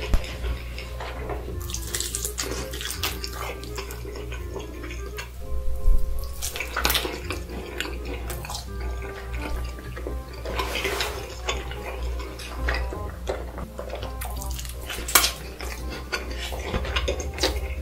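Close-miked wet chewing and lip-smacking of rotisserie chicken eaten by hand, with the meat and skin pulled apart. Irregular sticky clicks and squelches.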